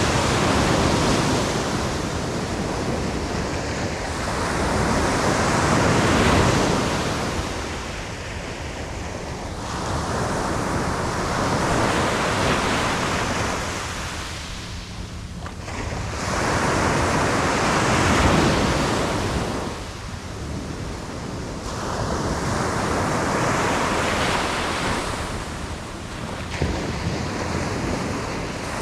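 Sea waves breaking on a sandy beach and washing up the shore, surging in a slow rhythm about every five seconds.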